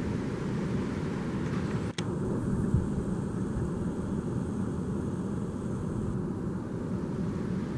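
Steady low rumbling noise, broken by a brief dropout about two seconds in.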